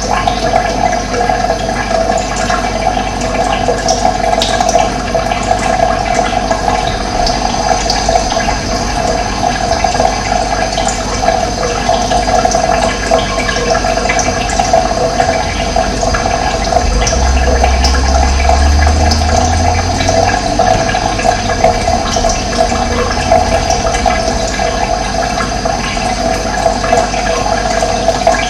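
Running water, a steady flowing wash of sound, with a low rumble for a few seconds past the middle.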